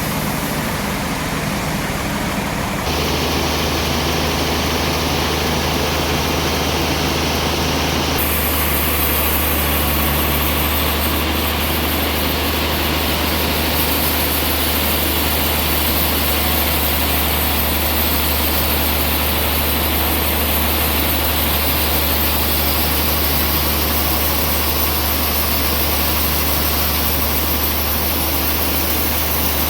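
Sawmill machinery running with a steady low drone. The sound changes abruptly about three seconds in and again about eight seconds in, then holds constant.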